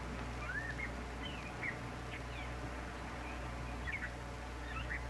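Birds chirping outdoors: scattered short chirps that sweep up or down, over a steady low hum.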